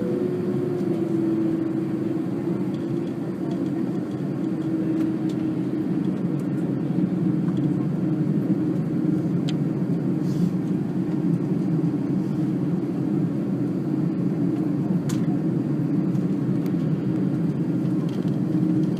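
Airbus A300-600 jet engines running steadily at low power: a continuous low rumble with a steady hum and no change in pitch.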